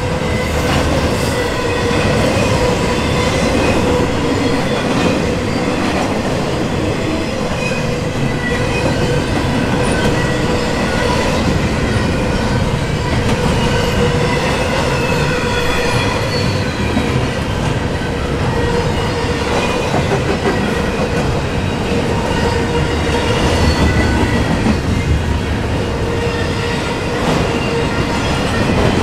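Double-stack intermodal freight cars rolling past at speed: a steady rumble and clatter of steel wheels on rail, with a steady squealing tone from the wheels running over it.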